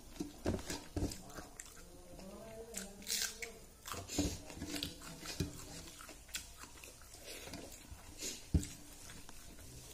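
Close mouth sounds of someone chewing a mouthful of rice and fish curry, with irregular wet smacks and clicks, while fingers mix rice on a steel plate. One sharper click comes near the end.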